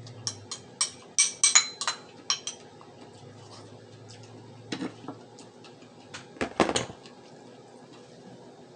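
A spoon clinking and scraping against a dish while food is scooped up: a quick run of sharp clicks, some with a short ring, in the first couple of seconds, then two louder knocks, one about five seconds in and one near seven.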